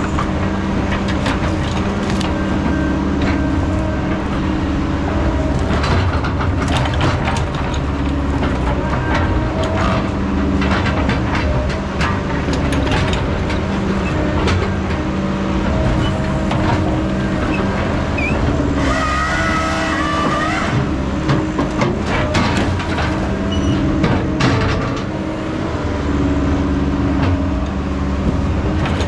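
Diesel engine of heavy logging machinery running steadily at work, with repeated metal clanks and knocks. A high squeal lasts about two seconds roughly two-thirds of the way in.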